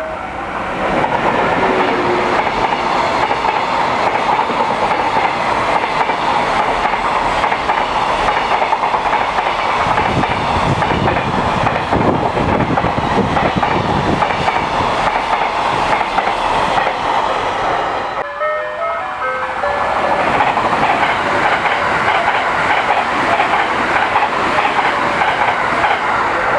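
Trains passing close by, wheels clattering over the rail joints. The sound dips briefly about 18 seconds in, then another loud passing follows.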